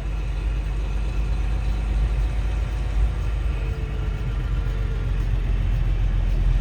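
Truck engine running with low road rumble, heard from inside the cab; steady, growing slightly louder near the end.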